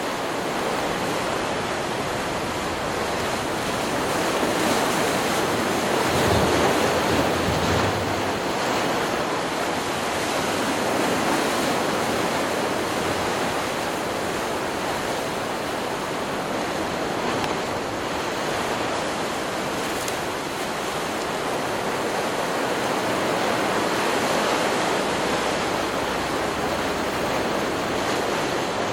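Stock recording of ocean surf: a continuous rush of breaking waves that swells and ebbs slowly, loudest about six seconds in and again near the end.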